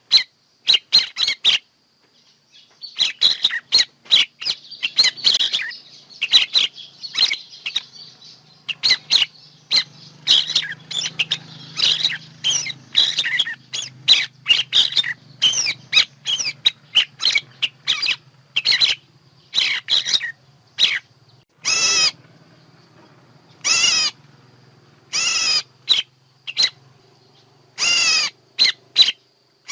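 Birds calling, used as a decoy recording for bird trapping: a rapid run of short, high chirps, with several longer, harsher calls in the second half.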